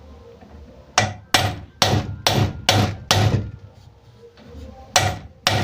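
Hammer striking a bolt held against a sewing machine's main shaft, driving the shaft into its bushing. Six quick blows about half a second apart start about a second in, then two more come near the end.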